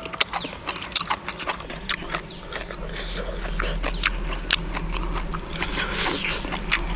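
Irregular sharp clicks and taps, with a low steady hum coming up about two seconds in.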